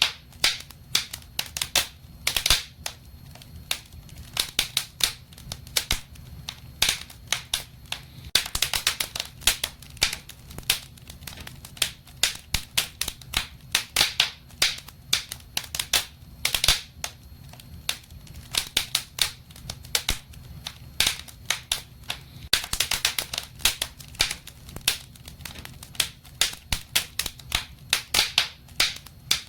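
Wood fire crackling in a fireplace: irregular sharp pops and snaps, some in quick clusters, over a faint low rumble.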